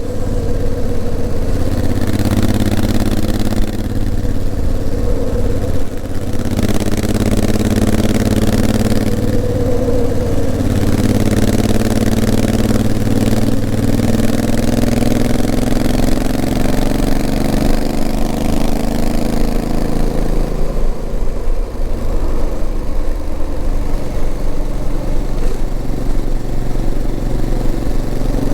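Honda CRF1000L Africa Twin's parallel-twin engine running under way; its pitch climbs steadily through the middle as the bike accelerates, then settles lower and steadier near the end.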